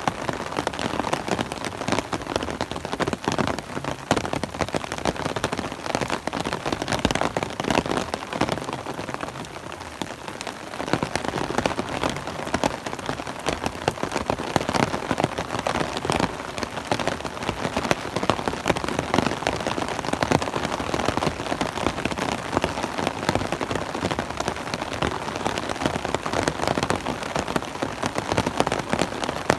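Steady rain pattering on an umbrella overhead and on the forest track, a dense spread of drop hits that eases briefly around ten seconds in.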